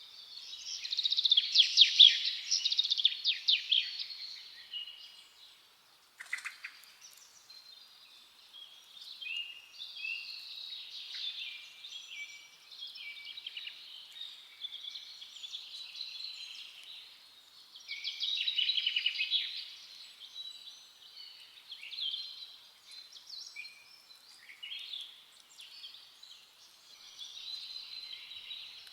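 Several forest songbirds singing and chirping in overlapping phrases, with louder bursts of song in the first few seconds and again about two-thirds of the way through. A single sharp click comes about six seconds in.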